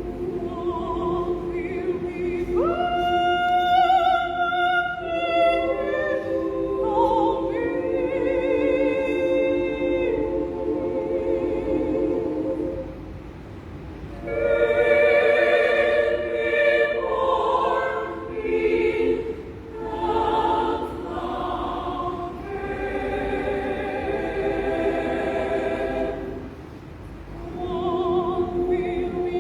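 Women's choir singing in several parts, in sustained phrases with brief breaths between them about halfway through and again near the end.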